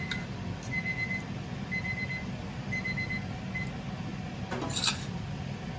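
Electronic appliance beeper sounding short high beeps in small clusters about once a second, stopping about two-thirds of the way through, over a steady low hum. A single sharp clink of a utensil sounds near the end.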